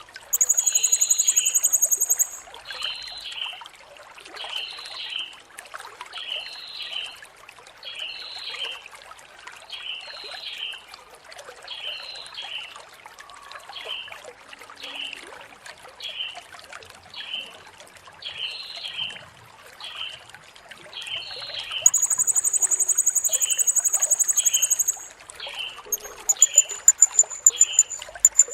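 Blue-crowned hanging parrot (serindit) calling: a steady series of short chirps a little under twice a second. At the start and again about two-thirds of the way in come loud, shrill, buzzy high notes, and a rapid high trill follows near the end. A faint trickling noise runs underneath.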